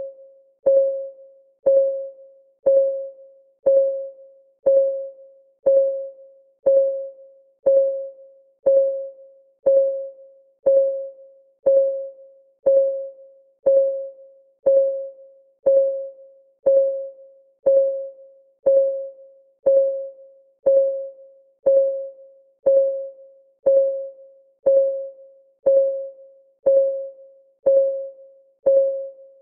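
Countdown timer's clock-ticking sound effect: a steady tick once a second, each tick a short, hollow, pitched knock that dies away at once.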